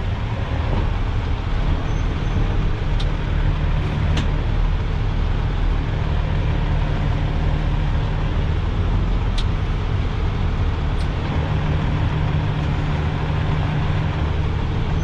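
Loaded dump truck's diesel engine running steadily at low speed while the truck creeps around a tight corner, with a few faint clicks.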